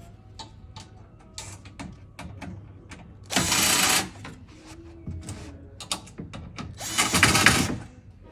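Power screwdriver driving screws to fasten bed-frame slats: two short runs of under a second each, about three and a half seconds apart, with small clicks and knocks of handling around them.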